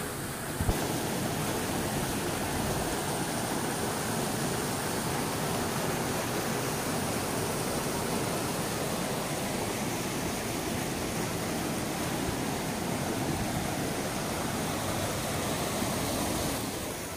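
Steady rushing noise of flowing water, such as a stream or waterfall. It sets in suddenly just under a second in and drops away near the end.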